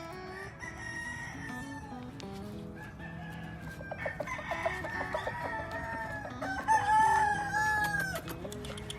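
Several gamefowl roosters crowing in turn, with some clucking among them. The loudest crow comes about seven seconds in.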